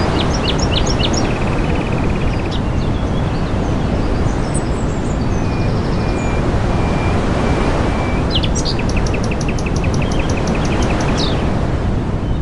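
Songbirds chirping and trilling, ending in a fast run of repeated notes, over a steady rushing background noise.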